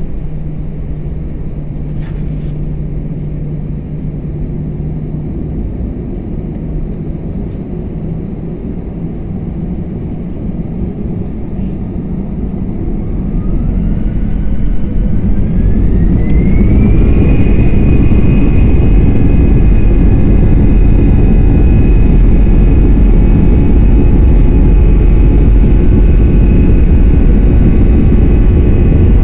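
Airliner's engines spooling up to takeoff thrust, heard from inside the cabin: a steady low rumble, then about halfway through a whine rises and levels off into a steady high tone while the rumble grows louder.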